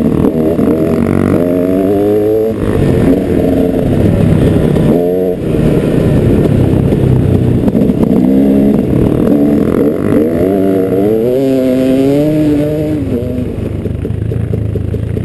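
Dirt bike engine running under load over trail terrain, its pitch climbing and dropping again and again as the throttle is worked and gears change, and settling to a steadier, lower note near the end.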